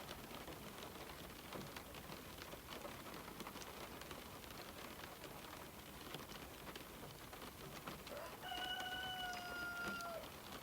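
Rain falling on a window: a steady patter of many small drop ticks. About eight seconds in, a single held, pitched call of about two seconds, from an unidentified source, rises over it as the loudest sound.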